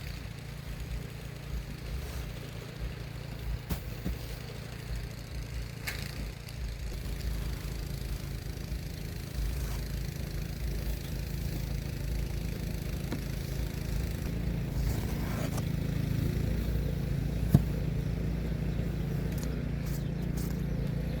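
An engine running steadily as a low drone that slowly grows a little louder, with scattered scrapes and knocks and one sharp knock about three-quarters of the way through.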